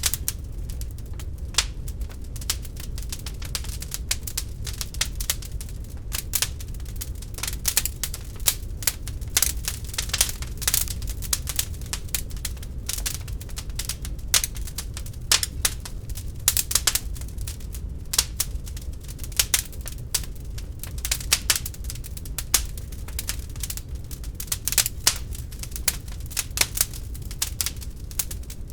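Wood fire burning in an open fireplace, crackling and popping in irregular sharp snaps over a steady low rumble of the flames.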